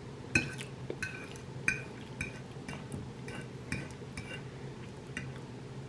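Metal fork or spoon clinking and tapping against a plate while eating, a dozen or so light, ringing clinks at an uneven pace of about two a second.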